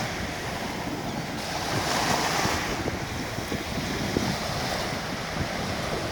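Surf washing onto a beach, a steady rushing with a swell about two seconds in, under gusty wind buffeting the microphone.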